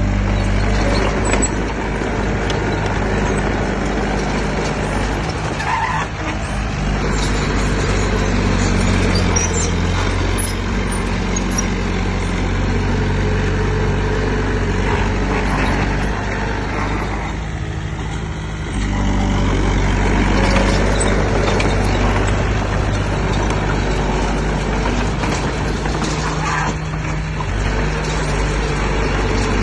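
Heavy diesel engine of earthmoving machinery running steadily under load. It eases off briefly a little past halfway, then picks back up.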